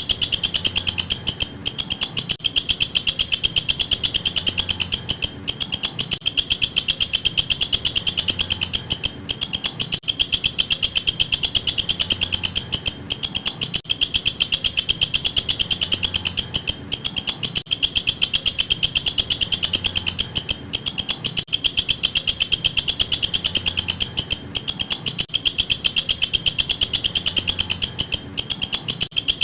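Walang kecek insect calling: a loud, very fast, continuous high-pitched pulsing chirr, broken by a brief gap every few seconds.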